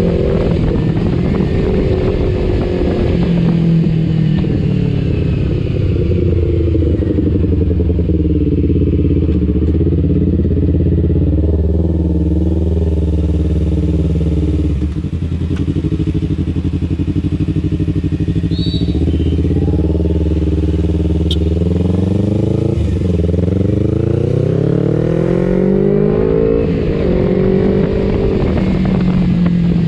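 Kawasaki Ninja 250 FI's parallel-twin engine running through an R9 H2 aftermarket exhaust while the bike is ridden. The revs ease down at first, hold steady for a stretch, then climb in a long rise about two-thirds of the way through and drop back near the end.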